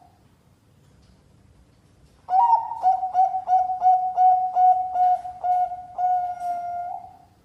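Zebra dove (perkutut, Bangkok contest line) cooing. After about two seconds of quiet comes a quick run of short notes at one steady pitch, about three a second, ending in a longer held note.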